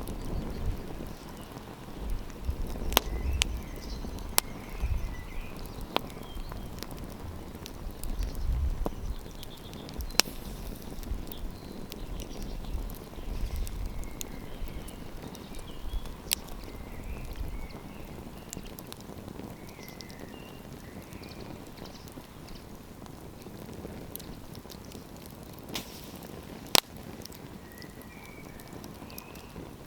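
Campfire crackling, with scattered sharp pops, one of the loudest near the end. A gusty low rumble of wind on the microphone comes and goes through the first half.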